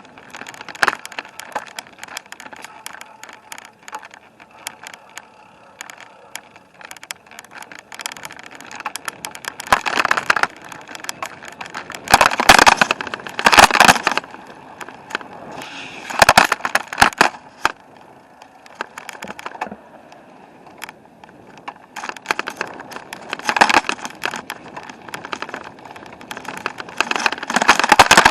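Bicycle riding over a rough surface: a constant crackle of rattling clicks, with louder noisy stretches about ten, twelve to fourteen, sixteen, twenty-three and twenty-seven seconds in.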